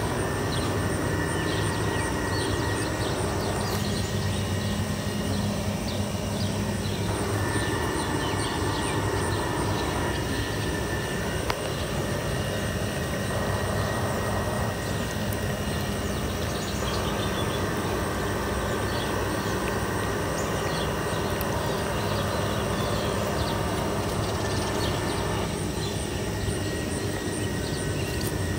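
Freight train rumbling steadily, with an even low engine drone.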